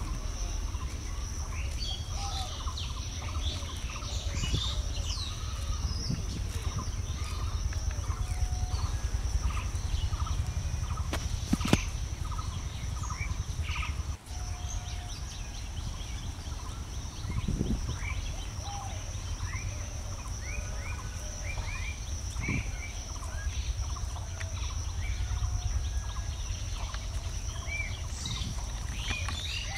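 Birds calling and chirping, with a run of short repeated calls in the first half, over a steady high-pitched hiss and a low rumble. A single sharp click about twelve seconds in.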